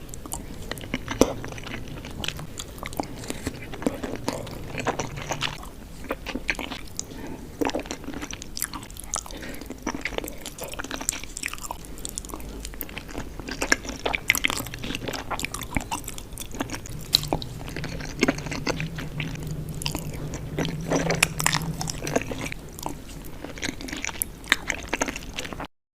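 Close-up eating sounds: a person bites and chews food, with irregular crunches and wet clicks of chewing.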